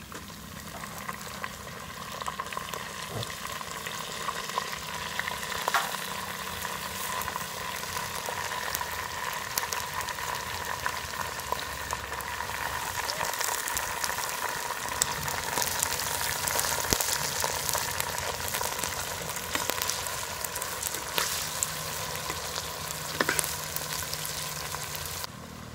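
Raw washed chicken pieces frying in hot oil with onions and dried red chillies in a clay pot, a continuous sizzle that grows stronger about halfway through, with small clicks and scrapes of a perforated metal ladle stirring.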